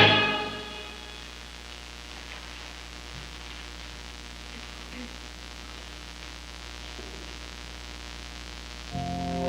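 The choir's final sung chord dies away in the first second, leaving steady hiss and a low mains hum from the old VHS tape. A sustained instrumental chord comes in near the end.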